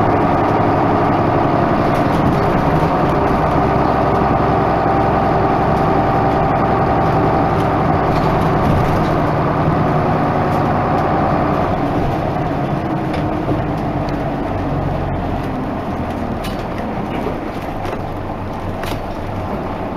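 Isuzu Erga Mio diesel bus running on the move, a steady engine note. About twelve seconds in the higher part of the engine note fades and it grows a little quieter and lower, as it eases off. A few light clicks come near the end.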